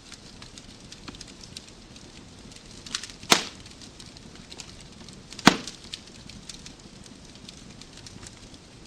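Wood fire in a fireplace crackling, with many small scattered ticks over a soft steady hiss and two loud sharp pops, one about three seconds in and one about five and a half seconds in.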